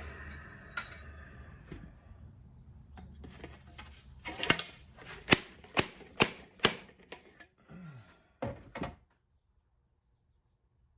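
A run of about nine sharp metal knocks, roughly two a second, as a stubborn part is driven down to seat it inside a Yamaha XJ900 front fork leg during a seal and bushing rebuild. The knocks stop suddenly near the end.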